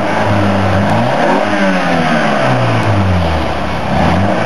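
Freshly started Toyota MR2 four-cylinder engine in a light home-built mid-engine car running, its speed climbing about a second and a half in and then falling back.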